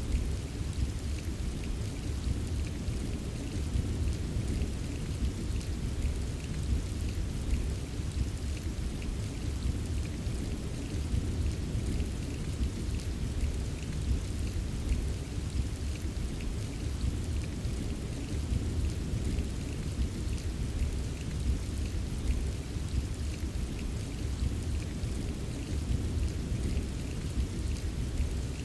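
Steady rain ambience: an even wash of rainfall with a constant low rumble and faint scattered drop ticks.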